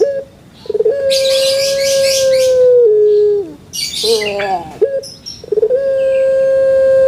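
A bird calling twice, each call a long held note of about two seconds that steps down in pitch and falls away at the end, led in by short wavering notes.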